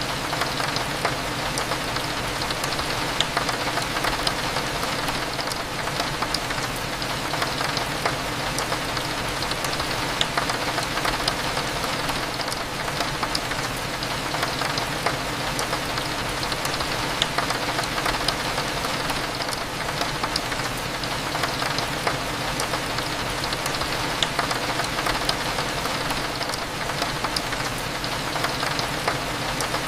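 Steady rain with many small drops ticking against window glass, over a low, even hum of cafe background noise.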